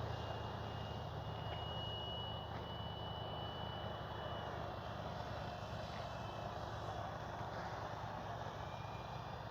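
Faint, steady whine of a flying RC Corsair's brushless electric motor and three-blade propeller, its pitch sagging slightly about halfway through.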